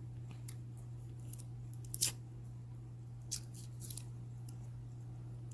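Toy or candy packaging being worked open by hand: scattered sharp clicks and crinkles, the loudest about two seconds in and a few more around three to four seconds, over a steady low hum.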